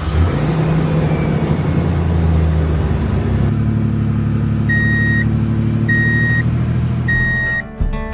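Truck engine running steadily at a low idle, with three evenly spaced beeps like a reversing alarm in the second half. It cuts off just before the end.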